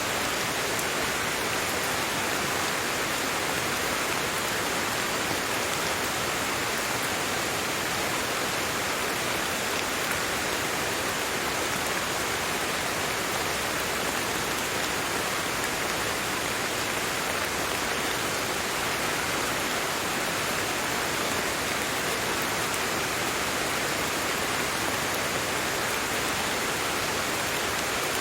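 Steady rain falling, an even hiss of many drops with no thunder or other sounds standing out.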